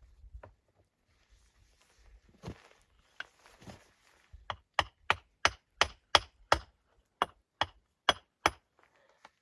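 A run of about ten sharp chopping strikes, roughly three a second with a brief pause in the middle. A few softer knocks and rustles come before them.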